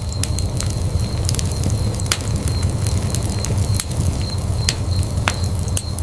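Wood fire burning in a fireplace: a low, steady rumble of flames with frequent irregular sharp crackles and pops.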